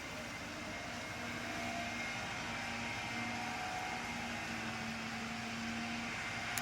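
A motor vehicle running steadily, with a faint whine over a low hum that comes and goes.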